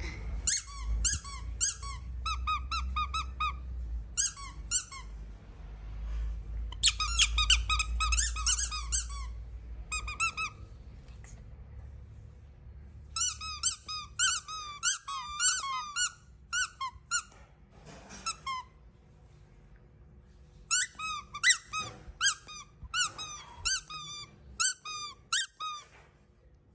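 Squeaky baby toys squeezed in quick runs of short, high squeaks, each bending in pitch. The squeaks come in several bursts with brief pauses between.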